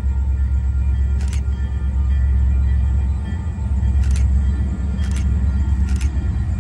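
Diesel-hauled train running by with a deep, steady rumble. Three sharp clicks cut through it, a second or two apart.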